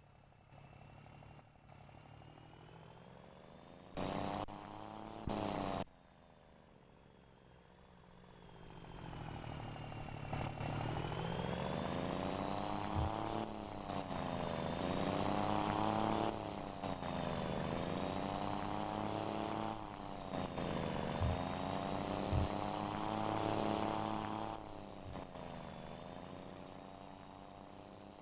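Straight-piped diesel engine of a Scania Super 540 truck, its pitch dipping and climbing several times, with a steady high whistle over it. It is quiet at first apart from two short loud blasts; the engine comes up loud after about a third of the way in and fades near the end.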